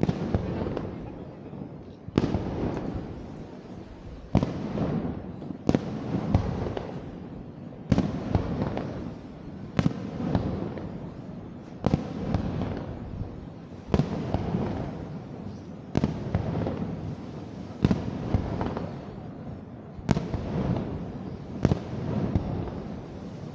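Fireworks shells bursting overhead, a sharp bang about every two seconds, each trailing off into a rumble before the next.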